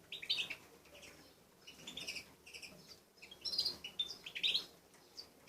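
Small caged finches chirping in short, scattered calls.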